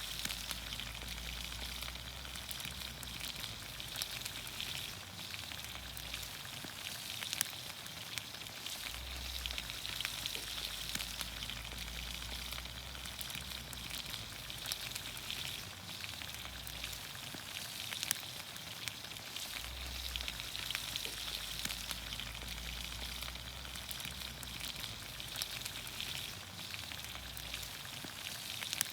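Green beans, onions, carrots and potatoes sizzling steadily in olive oil over a campfire, with scattered sharp pops and crackles.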